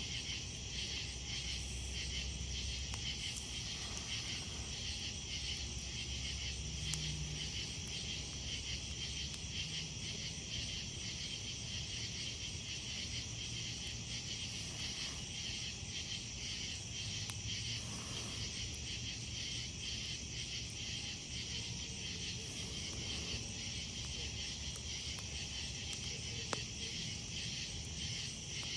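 Crickets chirping in a steady, pulsing night chorus, with a few faint pops from a wood campfire.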